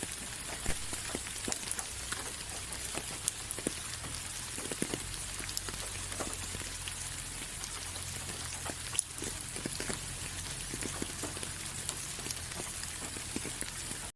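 Steady rain: an even hiss of rainfall with many individual drops ticking sharply on a surface, over a low steady rumble.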